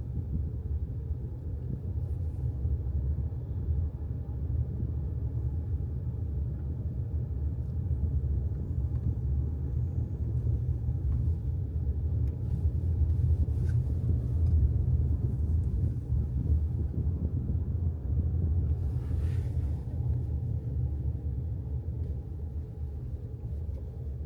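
Steady low rumble of a moving car, with a brief hiss about nineteen seconds in.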